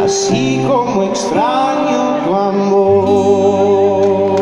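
Male singer closing a romantic Spanish-language ballad with a sliding phrase that settles into a long held note over instrumental accompaniment.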